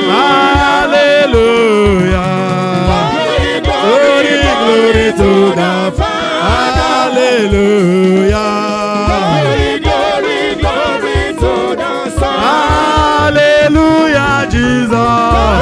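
Gospel worship music: voices singing a wavering melody over a held bass line and a steady beat.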